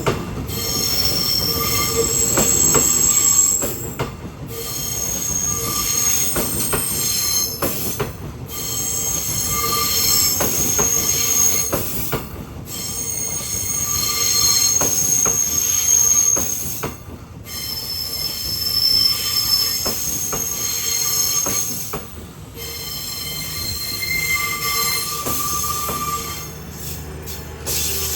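Train wheels squealing on steel rails: several high, thin squeals that come and go, over a run of sharp clicks from wheels crossing rail joints, the loudness swelling and dipping every four to five seconds.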